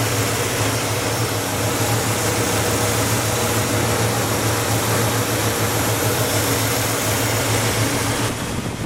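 1967 Cadillac Eldorado's 429 V8 idling steadily, a low even hum under a broad rush of air and fan noise. The hiss eases off near the end.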